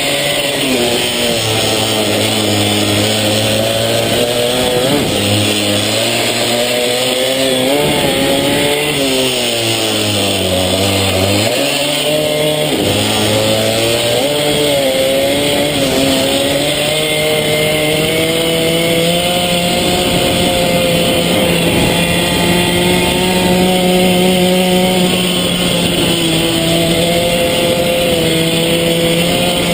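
Small 50cc minimoto engine running hard on track, its pitch falling and rising with braking and acceleration through corners for the first half, then holding high and fairly steady.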